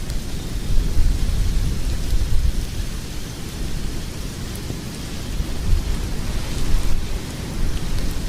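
Log fire burning in a fireplace: a steady low rumble of flames with a few faint crackles.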